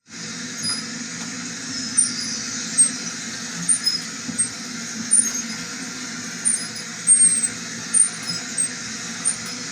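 Treadmill running with a steady low hum, with brief high-pitched chirps scattered irregularly through it.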